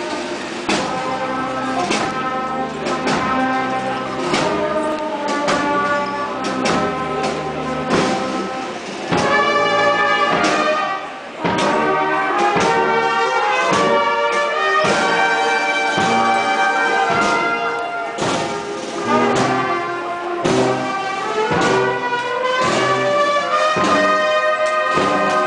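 Marching brass band playing a tune, with trumpets and trombones over a steady drum beat.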